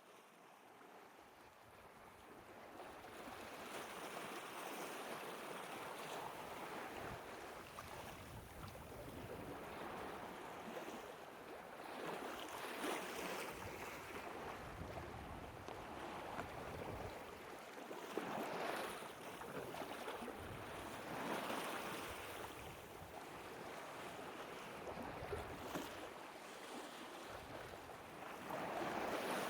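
Sea waves washing, fading in at the start and then swelling and falling every few seconds, with no steady engine tone.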